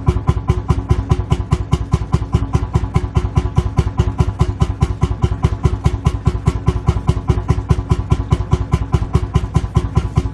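Lanz Bulldog tractor's single-cylinder two-stroke hot-bulb engine idling, firing in a steady, even, rapid beat.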